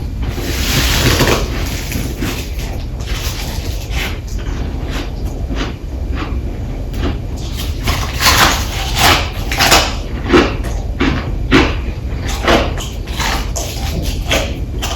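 Close-miked biting and chewing of frozen freezer frost, crunching between the teeth. There is a broad crunchy bite about a second in, then from about eight seconds on a run of crisp crunches, several a second.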